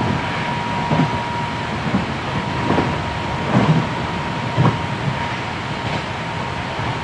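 Hankyu 7300 series electric train running, heard inside the passenger car: a steady rumble and hiss with a thump from the wheels on the track about once a second. A thin, steady high tone fades out about a third of the way through.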